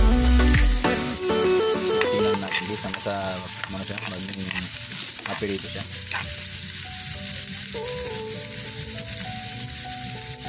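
Cubed potatoes and carrots sizzling as they fry in oil in a pan, stirred with a metal spatula.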